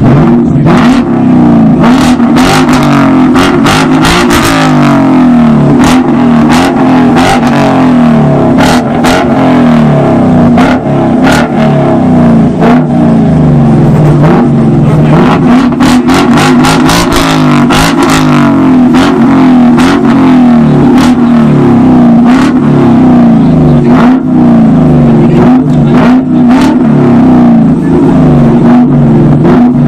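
Car engine revving hard through a loud exhaust, held high with its pitch wavering up and down, punctuated by many sharp cracks.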